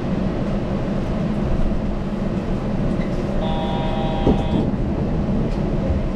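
Yurikamome rubber-tyred automated guideway train running along its concrete track, heard from inside the car: a steady rolling drone with a low hum. About three and a half seconds in, a steady multi-note tone sounds for about a second.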